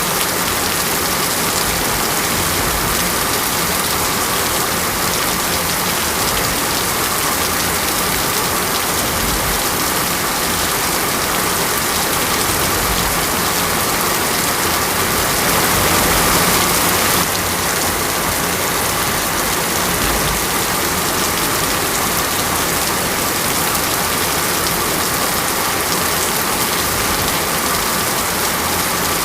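Heavy rain falling steadily, with a brief swell in loudness lasting about two seconds midway through.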